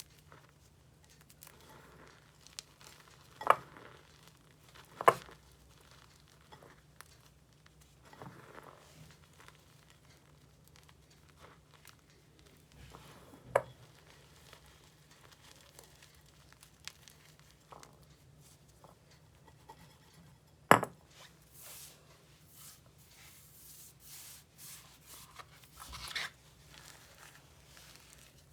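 Purple chalk being crushed and crumbled close up: four sharp cracks spread through, the loudest about three-quarters of the way in, with soft crunching and crumbling in between and a busier run of crunching near the end.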